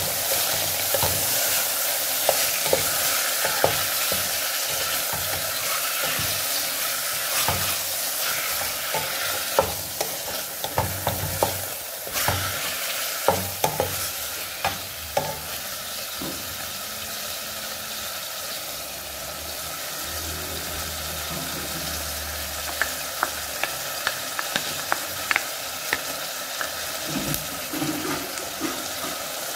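Beef frying in a metal pot with a steady sizzle, stirred with a spatula that scrapes and knocks against the pot. The knocks come thickest in the middle and thin out later.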